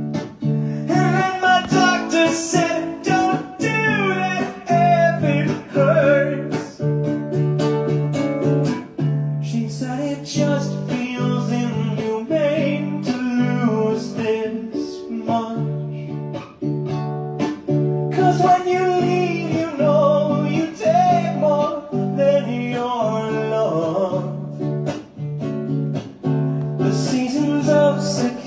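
Song with a strummed acoustic guitar, a voice singing over it from about a second in.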